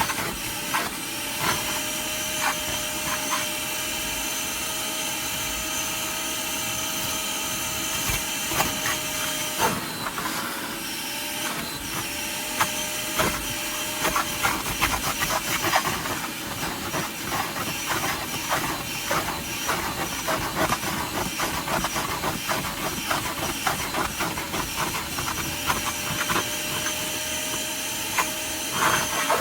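Carpet extractor's vacuum motor running steadily, sucking water out of car carpet, with many short clicks and scrapes as the nozzle is worked over it. The motor's tone dips briefly about ten seconds in.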